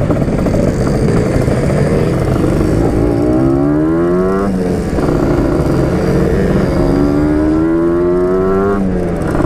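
Yamaha RX-King two-stroke single-cylinder motorcycle under way, its revs climbing and then dropping sharply twice, about four and nine seconds in, as it shifts up through the gears.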